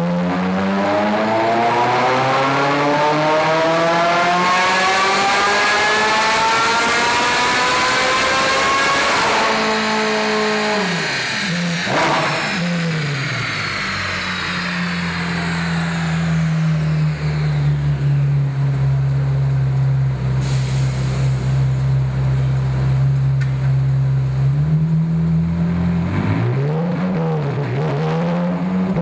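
Ferrari F430 Scuderia's V8 through a cat-bypass, resonator and X-pipe exhaust, making a full-throttle dyno pull that rises steadily in pitch for about nine seconds. The throttle then closes and the revs fall, settling into a steady lower hum, with a few short throttle blips near the end.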